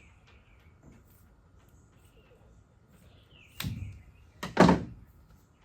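Two short cutting sounds about a second apart, the second louder, as the rubber tailgate seal is cut at a 45-degree angle. Faint bird chirps in the background.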